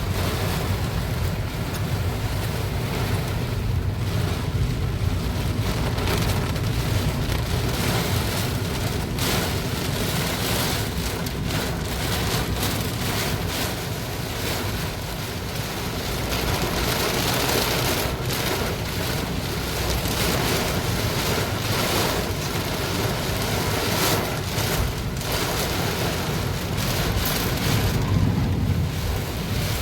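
Heavy rain pouring down in strong, gusty wind, with a low rumble of wind buffeting the microphone that swells near the end.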